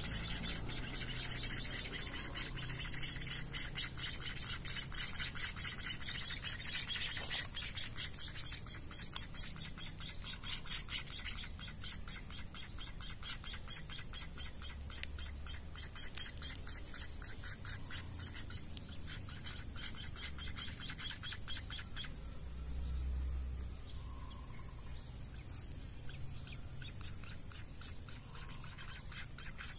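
Nestling munias begging with rapid, high-pitched chirping while they are hand-fed. About 22 seconds in the chirping stops abruptly, and only a few separate short peeps follow.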